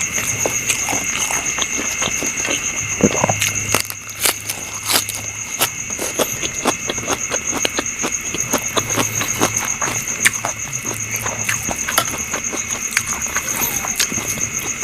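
Close-up eating sounds: chewing, lip smacks and mouth clicks in quick, irregular succession, over a steady high-pitched shrill tone in the background.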